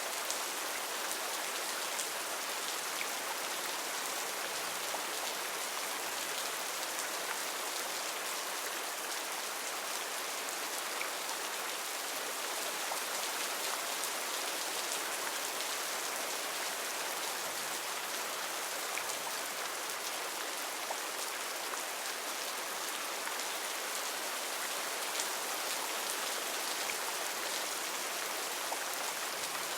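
Heavy rain falling steadily: a dense, even hiss with many small drops pattering on leaves and surfaces.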